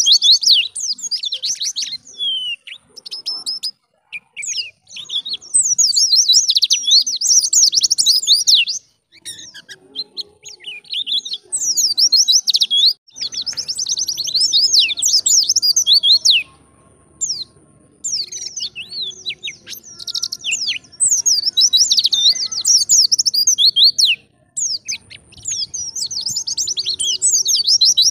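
A white-eye (pleci) singing a fast, high-pitched twittering song in phrases of a few seconds, separated by brief pauses.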